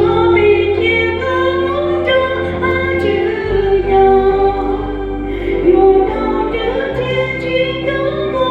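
Church hymn sung mostly by women's voices over a sustained low accompaniment whose bass note changes about every three and a half seconds.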